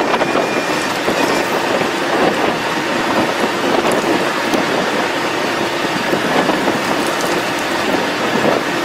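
Loud, steady rushing of strong storm wind around a vehicle near a tornado, with scattered small clicks such as rain striking the body.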